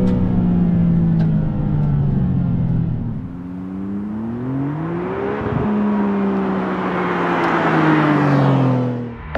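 Maserati MC20's 3.0-litre twin-turbo Nettuno V6 running. Its note sinks for about three seconds, climbs for about two as the car accelerates, then falls slowly while a rush of tyre and wind noise swells near the end.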